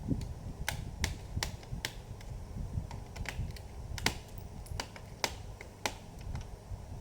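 Irregular sharp plastic clicks and taps from handling a laptop's plastic casing during disassembly, over a low rumble of handling, with the loudest click about four seconds in.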